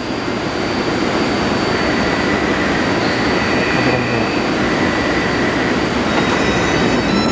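Taipei Metro 381-series train running on the track: a steady dense rumble of wheels and running gear that grows a little louder in the first second or two. Thin high whine tones come in over it, one about two seconds in and several more near the end.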